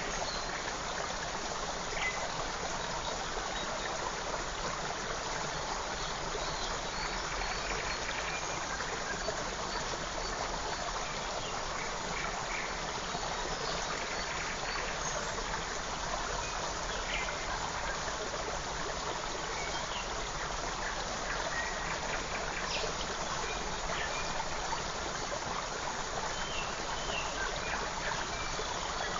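Forest creek running steadily, with faint, short bird chirps now and then over the water.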